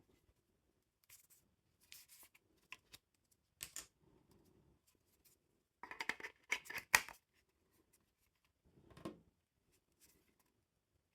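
Packaging being handled: scattered short rustles and clicks, busiest and loudest about six to seven seconds in, with a sharp click near seven seconds and another rustle a couple of seconds later.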